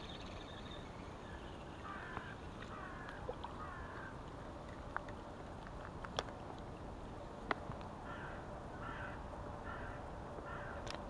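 A bird calling outdoors in short repeated calls, a group of three about two seconds in and four evenly spaced calls near the end. A few sharp clicks sound over a steady background hiss.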